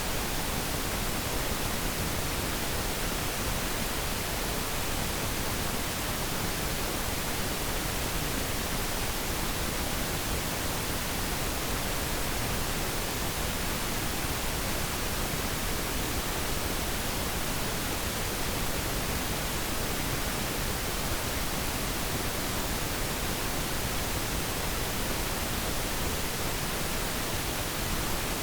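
Pink noise: a steady, even hiss, softer in the highs than white noise.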